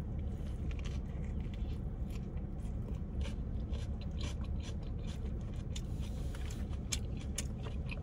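A person chewing food up close to the microphone, with many small crisp clicks and crunches, over a steady low hum.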